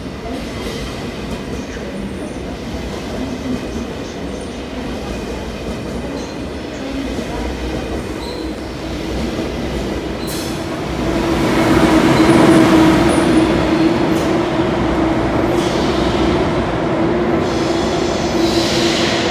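A train running along the track, growing louder a little over halfway through as it comes closer, with a steady whine appearing as it nears and a few sharp clicks.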